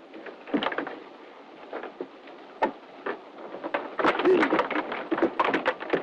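A run of irregular knocks and bumps against wood, growing busier in the second half, with a few short grunts among them.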